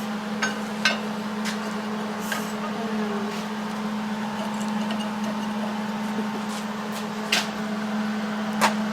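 Steady machine hum at one low pitch, with a few light clicks and knocks scattered over it.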